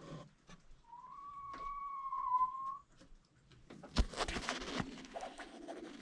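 A clear, whistle-like note held for about two seconds, wavering slightly in pitch. About four seconds in, a sudden knock and rustle of handling follows, with fainter rustling after it.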